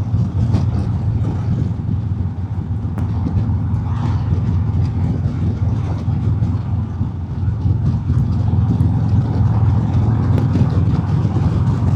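Harley-Davidson Road King's Milwaukee-Eight V-twin running steadily while riding on the highway: a low, steady drone mixed with wind and road noise on a helmet microphone.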